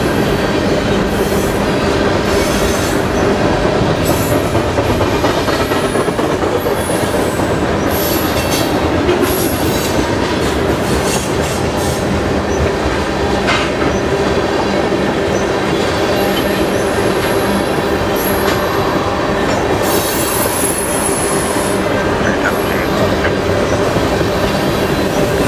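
Freight train of boxcars and tank cars rolling past: a steady, loud rumble and rattle of steel wheels on rail, with several brief high-pitched wheel squeals.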